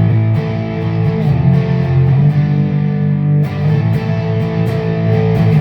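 PRS SE Hollowbody II electric guitar with humbuckers, strummed chords played through a Peavey Vypyr X2 modelling amp set to its 6534 high-gain amp model for a slightly overdriven tone. The chords ring on, with fresh strums about a second and a half and three and a half seconds in.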